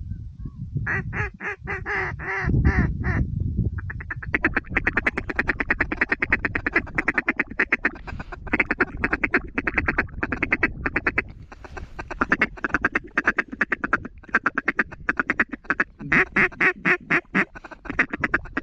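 Hand-blown duck calls sounding long, quick runs of quacks and feed chatter, about eight notes a second, in several strings with short breaks between them. Wind rumbles on the microphone underneath.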